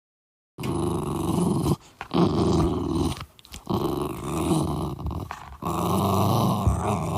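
A puppy growling in four long stretches with short breaks between them, starting about half a second in.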